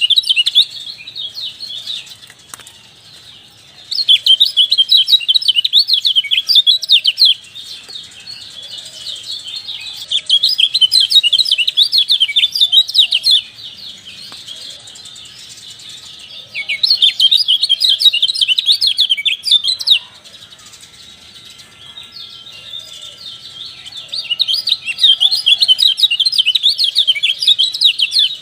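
Kecial songbird chirping. Rapid bursts of high, chattering notes last about three seconds each and come back roughly every six seconds, with softer calls in between.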